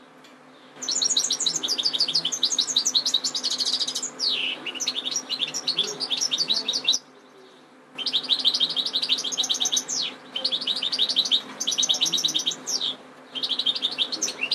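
European goldfinch singing: long runs of fast, high twittering notes and trills, starting about a second in, with a break of about a second halfway through.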